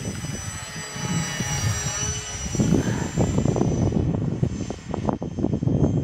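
Electric motor and propeller of an Avios BushMule RC plane whining in flight, the pitch shifting up and down as it passes, with heavy wind buffeting the microphone in gusty conditions.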